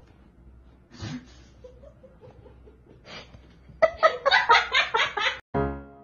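A person laughing in a quick run of short bursts, starting about four seconds in, after a faint puff of breath about a second in.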